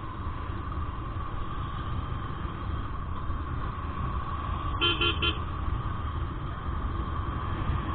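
A vehicle horn gives a short triple beep about five seconds in, over a steady low vehicle rumble.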